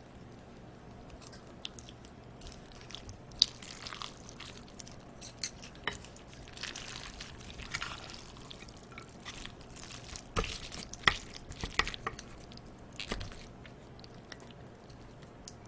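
Wet, sticky food sounds of cold bibim noodles and live octopus in sauce being handled, with scattered sharp clicks of utensils against the dish.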